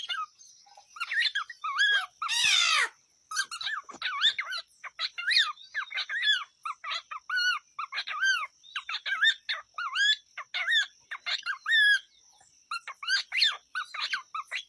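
Cockatiel chattering: a rapid, uneven run of short squeaky chirps and whistles, with one harsh screech about two and a half seconds in.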